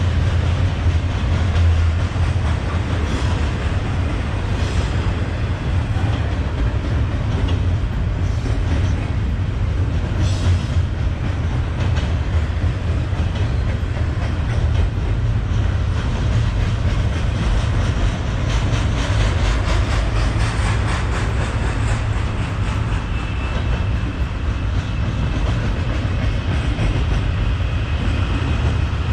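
Freight train rolling past, a steady heavy rumble with wheels clicking over the rail joints now and then. A faint high wheel squeal comes in during the last few seconds.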